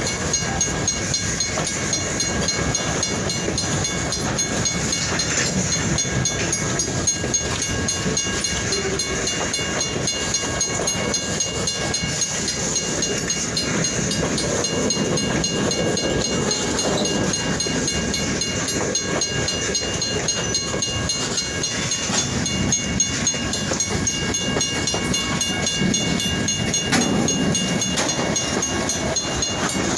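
Freight train rolling past, its wheels clicking steadily over the rails, with steady high-pitched tones ringing above the clatter.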